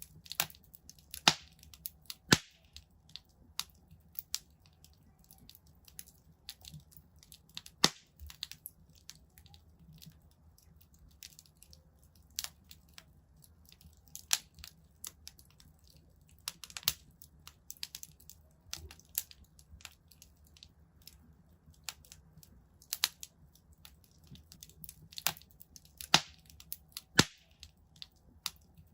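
Wood fire crackling in a fireplace: irregular sharp pops and snaps, a few much louder than the rest, over a faint low hum.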